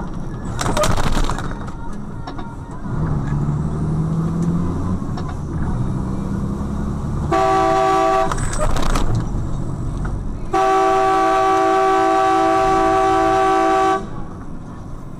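Car horn sounding twice over road and engine noise: a short blast of under a second, then a long steady blast of about three and a half seconds.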